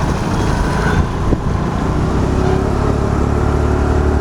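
Small motor scooter running at riding speed, its engine a steady low hum under road rumble, with one brief click about a second in.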